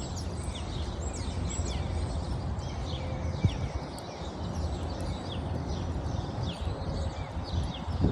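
Small birds chirping over and over, short high chirps that slide downward, over a steady low background rumble.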